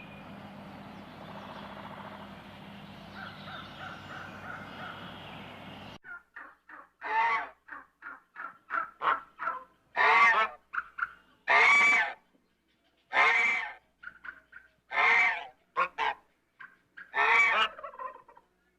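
A large bird calling: a series of loud calls, the biggest about half a second long, with shorter notes between. They follow several seconds of steady background noise with a few faint repeated bird notes, which cuts off suddenly.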